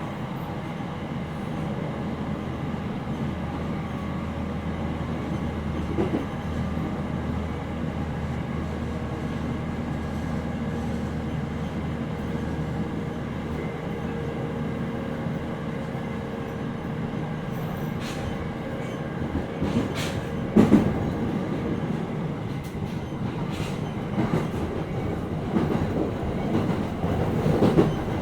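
Interior running noise of a JR East 701-series 5500-subseries electric train: a steady rumble of wheels on rail with a faint steady tone underneath. Sharp wheel clacks over rail joints or points come about six seconds in, again around twenty seconds, and more often near the end as the train nears its terminal station.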